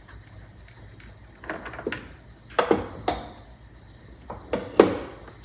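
Hard clunks and knocks from a car's steering wheel being worked off the steering column and handled, in three short groups, the loudest near the end.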